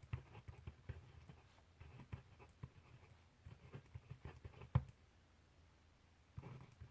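Handwriting on paper: irregular small taps and scratches of the writing tip, with one sharper tap just before five seconds and a pause of about a second before the writing starts again.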